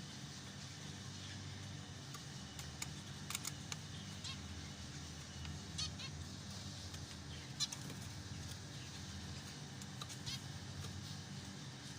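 Zebra finches calling: short, nasal, honk-like beeps come irregularly, several a second at times, over a steady low hum.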